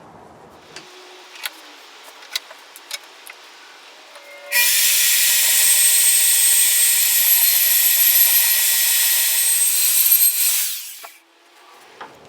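Handheld portable band saw (Portaband) cutting through a metal lathe tool rest holder: a few clicks of handling, then about six seconds of steady running and cutting that winds down and stops near the end.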